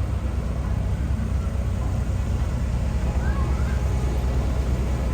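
Diesel engine of heavy earth-moving machinery running steadily at constant speed.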